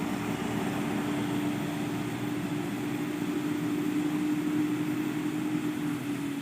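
A heavy diesel truck's engine working hard up a steep climb, a steady droning note that starts to ease off near the end.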